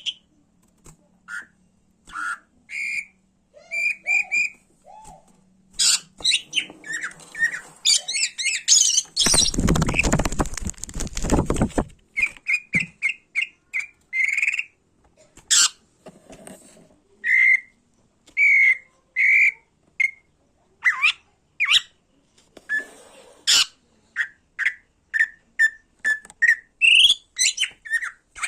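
Greater green leafbird (cucak ijo) calling in an agitated, fired-up mood: a rapid run of short whistles and harsh squawks. About nine seconds in, a loud rough noise lasts about three seconds.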